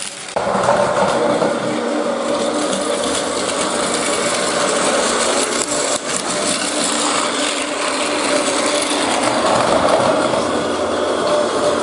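Plarail toy train running along plastic track, its small motor and gears whirring steadily.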